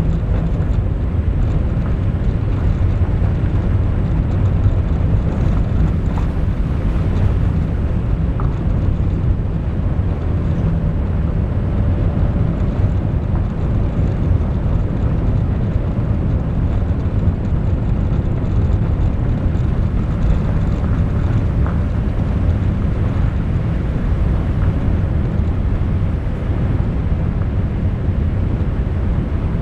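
Steady low rumble of a moving vehicle, running evenly with no breaks.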